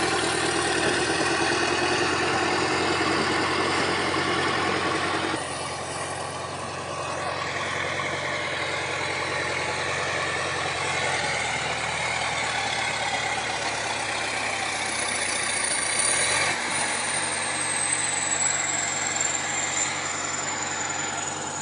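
Heavy machine's engine running steadily. Its level drops a little about five seconds in, and over the last few seconds a high whine falls slowly in pitch.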